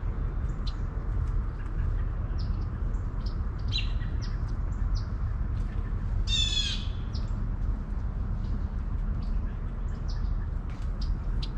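Birds chirping in short, scattered calls over a steady low rumble. One louder, harsh call about half a second long comes just past the middle.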